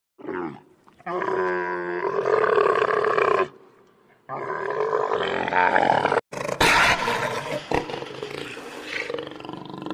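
A lion roaring in long, drawn-out calls: a short one near the start, then three long ones with brief pauses between them.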